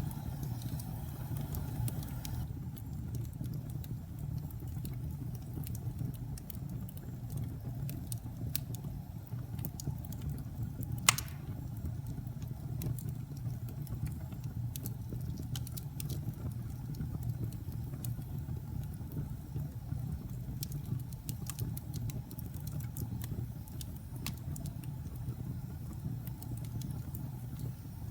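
Logs burning in a fireplace: a steady low rumble of the fire with scattered small crackles and pops, and one sharper pop partway through.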